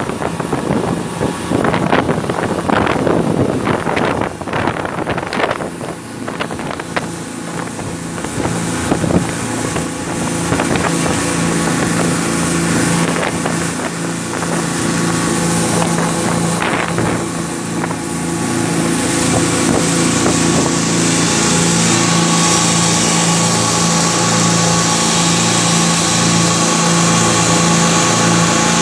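Motorboat engine running steadily, with gusts of wind buffeting the microphone during the first several seconds. About two-thirds of the way in, the engine and a high hiss grow louder.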